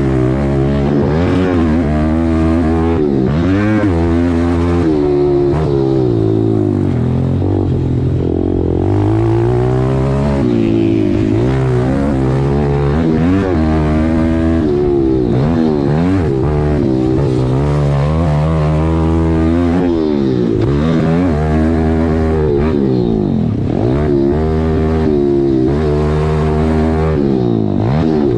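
Pit bike engine being ridden, revving up and falling back again and again through the gears and throttle changes, a rise and drop every second or two.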